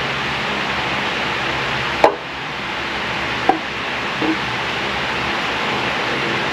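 Steady hiss of background noise with three short sharp knocks from handling parts during engine work; the loudest knock comes about two seconds in, a second follows near three and a half seconds, and a smaller double knock comes a little after four seconds.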